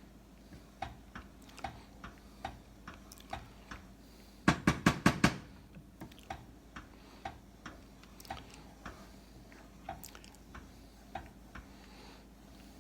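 A stirring utensil clicking against the side of a saucepan of thickening chocolate pudding, about two light clicks a second. A quick run of louder knocks comes about four and a half seconds in.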